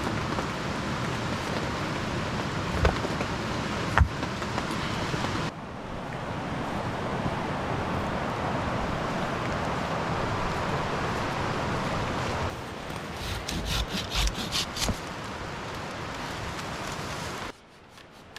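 Heavy rain hissing steadily, with a few sharp knocks and, about two-thirds of the way through, a quick run of scraping strokes.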